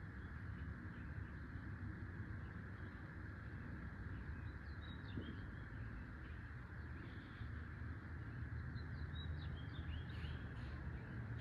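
Outdoor ambience: a steady low rush of background noise, with small birds chirping in two short bursts, about halfway through and again near the end.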